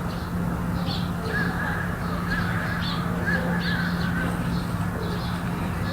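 Outdoor birds giving many short, separate calls, some of them crow-like caws, over a steady low hum.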